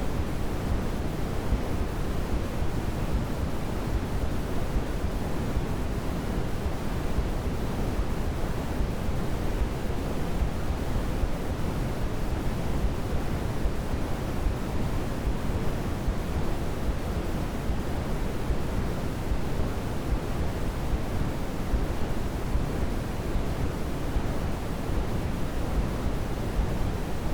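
Steady generated noise that never changes, heavier in the low end and fading toward the highs, like pink noise: a baby sleep-aid white-noise track.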